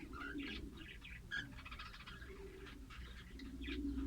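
Lovebirds chirping: many short, high chirps and squeaks in quick succession.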